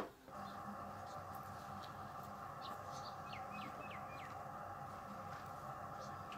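Small birds chirping, with a quick run of short falling chirps about three to four seconds in, over a steady low hum. A sharp click right at the start is the loudest sound.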